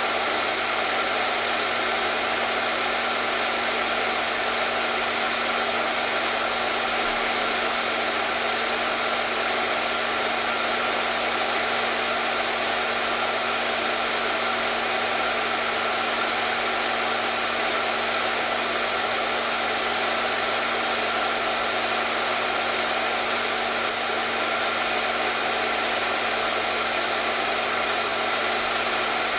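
Hair dryer running continuously at a steady speed: an even rushing airflow over a constant motor hum, with no change in pitch or level.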